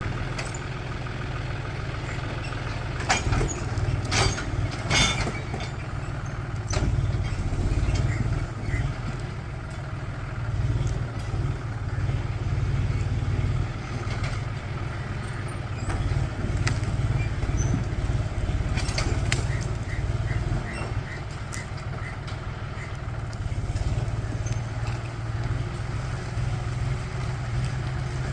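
John Deere tractor engine running steadily with a low rumble. Several sharp knocks come about three to five seconds in, and a row of short high pips follows near the twenty-second mark.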